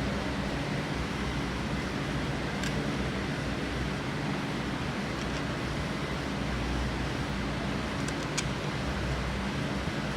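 Steady mechanical hum and noise of a workshop background, with a few faint light clicks of parts or tools being handled, about three seconds in and again near the end.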